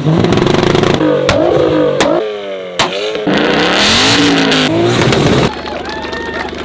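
Modified car engines revving hard against a two-step rev limiter, pitch rising and falling, with three sharp exhaust bangs in the first three seconds. The sound changes abruptly several times, cutting from one car to another.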